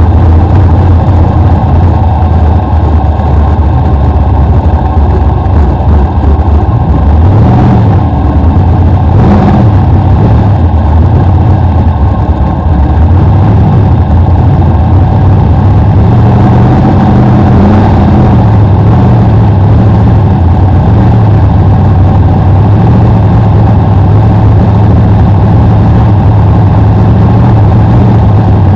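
BriscA F1 stock car's V8 engine heard on board, very loud and constant, its pitch rising and falling as the driver comes on and off the throttle around the short oval.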